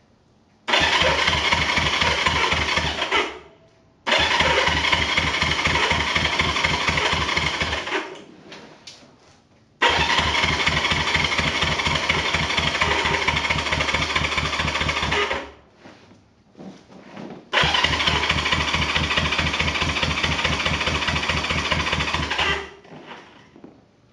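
1973 Honda CB350's parallel-twin engine being cranked by its electric starter in four separate bursts of several seconds each, turning over steadily without catching, after two years of sitting.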